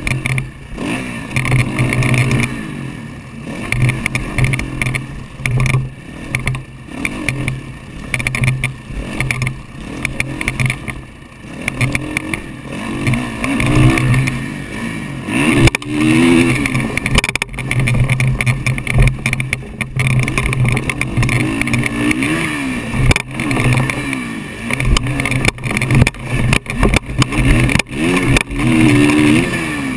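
Motocross dirt bike engine revving up and falling back again and again as the rider accelerates and backs off around the track, heard from a helmet-mounted camera. Many sharp knocks are mixed in, most of them in the second half.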